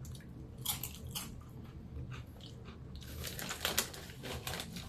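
A person chewing crunchy potato chips close to the microphone, with scattered crunches that come thicker in the second half.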